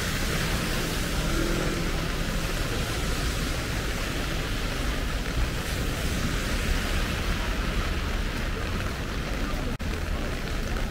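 Heavy typhoon rain falling steadily, a dense even hiss, with a low rumble underneath. The sound drops out for an instant near the end.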